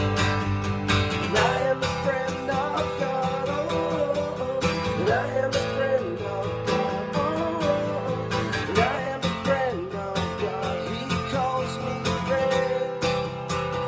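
Worship song on acoustic guitar: chords strummed in a steady rhythm, with a voice carrying a melody over them from about a second in.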